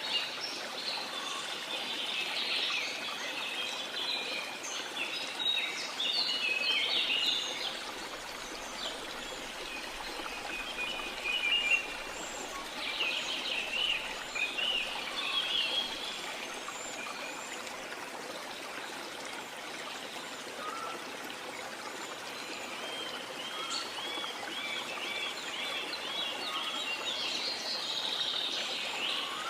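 Rainforest soundscape: a steady rush of falling water under birds chirping and trilling, the calls coming in bouts, with a run of quickly repeated notes near the end.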